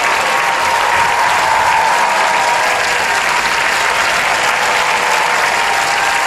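Studio audience applauding steadily after a song performance, with scattered cheers.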